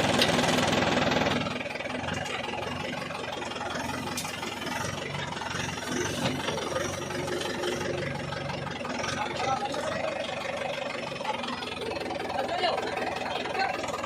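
Mahindra 595 tractor's diesel engine running, louder for the first second and a half, then settling to a steady lower level.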